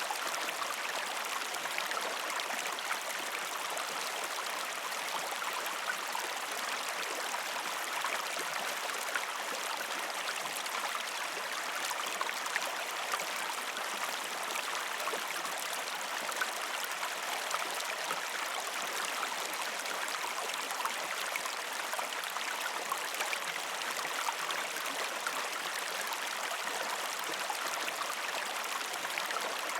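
A shallow river stream flowing steadily over rocks, a constant rushing with fine splashing and gurgling.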